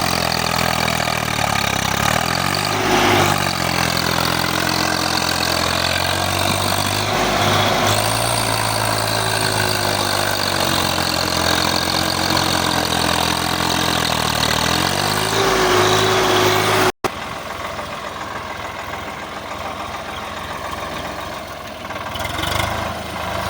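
Swaraj 855 tractor's three-cylinder diesel engine working hard in mud, its pitch rising and falling as it is revved up and eased off several times. About two-thirds of the way through the sound cuts off abruptly, and the engine then carries on more quietly.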